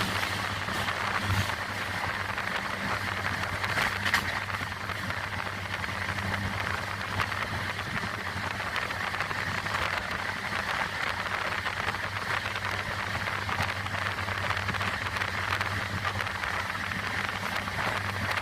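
Vaigai Superfast Express train running: a steady rush of wheel and track noise with a constant low hum underneath and a few faint clicks.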